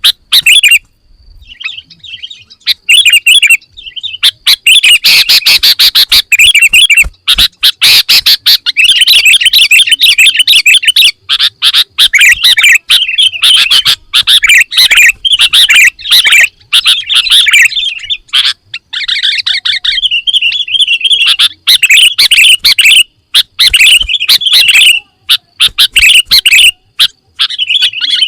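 Sooty-headed bulbul (kutilang) singing loudly: a busy, varied song filled with mimicked phrases, delivered in fast runs of chirping notes broken by short pauses.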